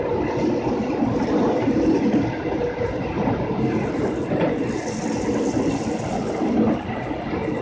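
Running noise of a moving passenger train heard from its rear end: a steady rumble of wheels on the rails, with a brief higher hiss about five seconds in.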